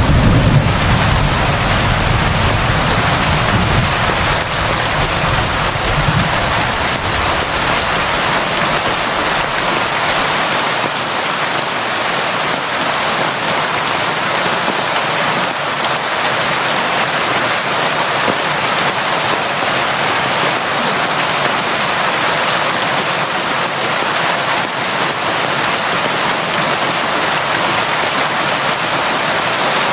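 Steady, constant rain falling, a dense even hiss. At the start a low rumble of thunder fades away over the first several seconds.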